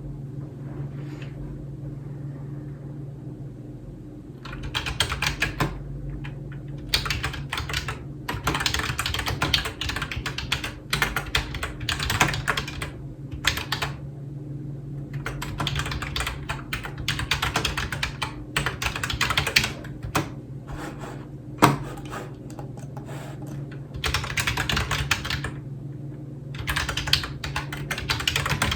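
Typing on a computer keyboard in quick runs of key clicks with short pauses between them, fairly quiet for the first few seconds, and one louder single click about two-thirds of the way through.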